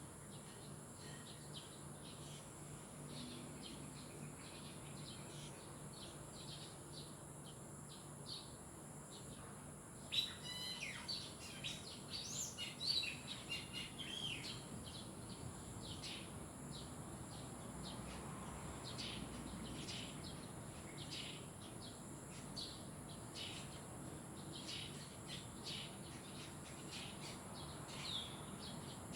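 Birds chirping: many short, high calls throughout, with a louder run of quick chirps about ten seconds in that lasts a few seconds. A steady high hiss runs underneath.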